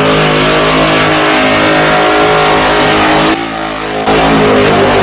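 Burnout car's engine held at high revs through a burnout. A little over three seconds in, the engine sound dips for under a second, then comes back up.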